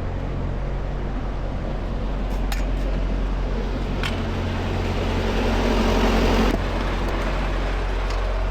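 Semi truck's diesel engine running steadily with a low hum. A rushing noise swells and cuts off suddenly about six and a half seconds in, and a couple of sharp clicks are heard.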